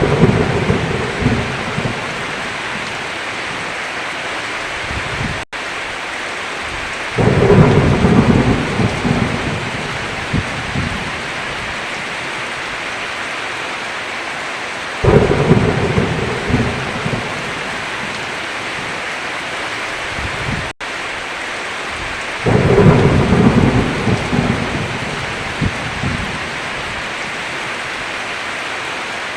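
Heavy rain beating steadily on a roof, with four rolls of thunder rumbling for a few seconds each, about every seven or eight seconds. The sound drops out completely for an instant twice.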